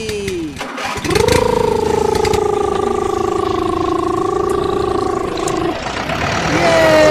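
Miniature JCB excavator's small electric motor whining steadily for about four and a half seconds, its pitch sagging slightly, then cutting off. A second, falling whine starts near the end.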